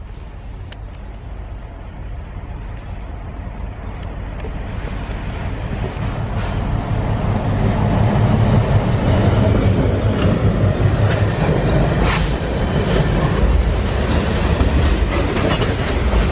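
A train passing close by on the track: a deep rumble that swells over the first half and stays loud through the rest, with a couple of sharp knocks.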